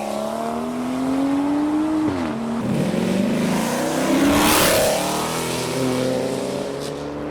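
Modified car's engine accelerating: its note climbs for about two seconds, drops as the driver lifts or shifts, and a loud rushing surge peaks a little past the middle as it drives past.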